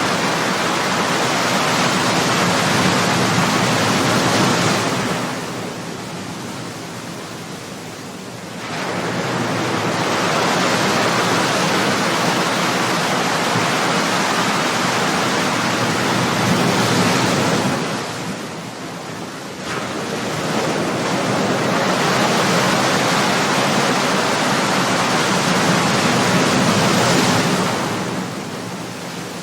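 Ocean waves crashing on the shore: a continuous rushing wash of surf that falls away into a brief lull about every ten seconds between breakers.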